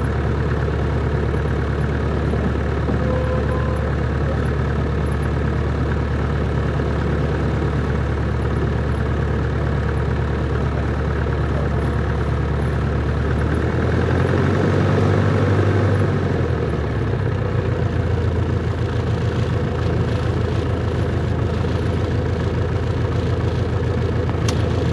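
Cessna 140's four-cylinder piston engine and propeller running steadily at low power. About fourteen seconds in the power comes up briefly for a couple of seconds, then drops back to a slower, more pulsing idle.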